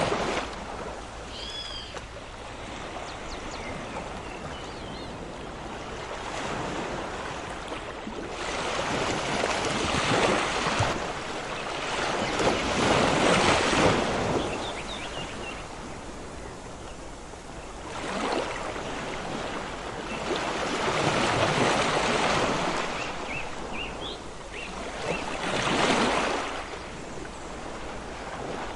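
Ocean waves breaking and washing ashore, swelling and fading every few seconds, with the loudest surge about halfway through. A few faint high chirps come through now and then.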